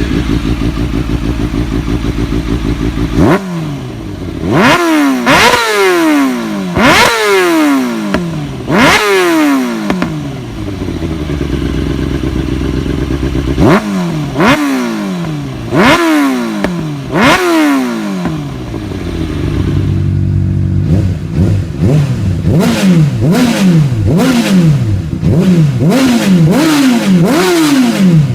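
Sport motorcycle engine with an aftermarket exhaust idling, then revved in a series of sharp throttle blips that rise and fall back to idle. Near the end the blips come quicker and shorter, about one a second.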